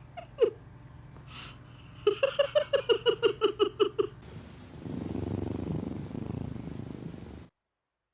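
A cat gives a quick run of about a dozen short, pitched calls, then purrs for a couple of seconds before the sound cuts off suddenly.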